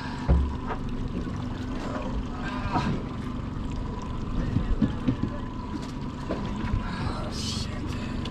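A boat's motor running steadily under wind on the microphone, with a low thump just after the start and a few short knocks of handling.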